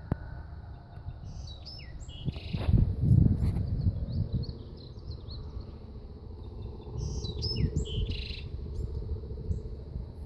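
A small songbird singing two short phrases of quick, sweeping high notes, about five seconds apart, which the uploader tentatively takes for a Bewick's wren. Low rumbling noise runs underneath, loudest about three seconds in.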